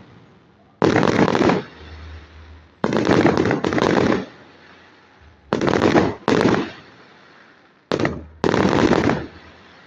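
Fireworks display going off: several sudden volleys of rapid crackling bangs, each lasting about half a second, in an uneven rhythm with short gaps between them.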